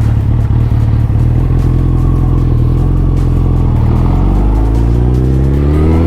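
Suzuki Hayabusa's 1340 cc inline-four engine running steadily at low revs, then rising smoothly in pitch from about four seconds in as the bike accelerates.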